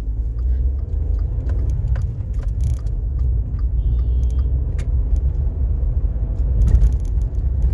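Low road and engine rumble inside a small car's cabin while driving, picked up by the phone's own microphone. Scattered sharp clicks and knocks run through it, a cluster of them near the end, as the car goes over a bumpy stretch.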